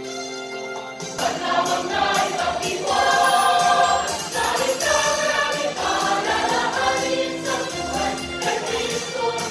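Choir singing a Christmas carol with instrumental accompaniment. A held chord gives way about a second in to a fuller, louder section with a steady rhythmic beat.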